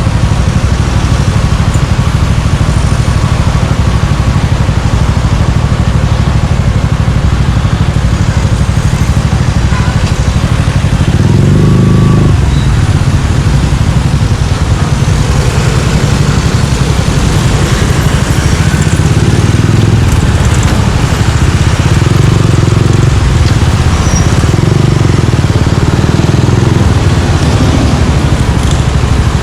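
Suzuki Gixxer 155's single-cylinder engine running through an aftermarket Yoshimura exhaust, loud and steady. About eleven seconds in the note swells briefly as the throttle opens, and it stays stronger through the second half.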